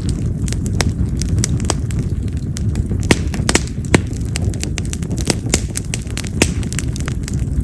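Split wild mountain cherry (yamazakura) firewood burning in an open fire: frequent sharp crackles and pops over the low, steady rush of the flames, with a couple of louder pops about three and a half and four seconds in. Cherry is a wood that pops loudly, almost like firecrackers.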